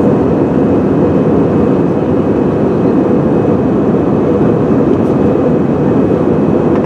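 Airbus A320 cabin noise in flight during descent: a steady rush of engine and airflow noise heard inside the cabin, with a faint steady hum.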